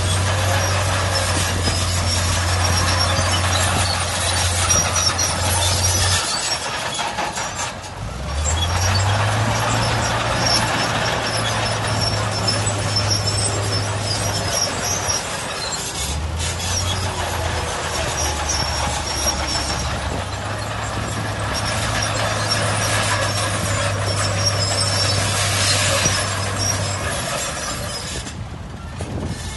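Heavy diesel earthmoving machinery working: a low, steady engine note under a loud, noisy mechanical clatter, broken into stretches that each begin abruptly with the engine pitch climbing briefly.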